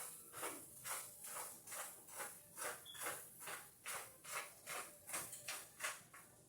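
Spatula scraping and stirring food in a hot frying pan in an even rhythm of about two to three strokes a second.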